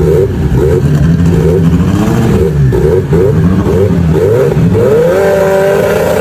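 Fiat 600's small engine revving up and down several times, its pitch rising and falling. About five seconds in it climbs to a steadier, higher note and holds there.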